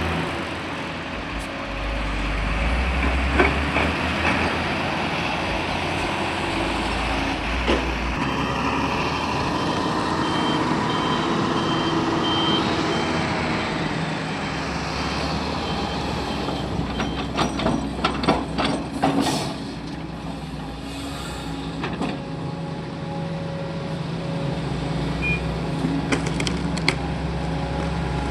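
Heavy diesel machinery running steadily: excavator and dump truck engines at a loading site. A vehicle's reversing alarm beeps for several seconds partway through, and about two-thirds through there is a short spell of clattering and sharp hissing bursts, like air brakes.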